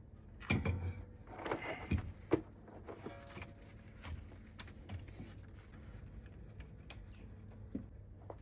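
Scattered light knocks and clicks over a low steady hum, with a brief squeaky tone about three seconds in.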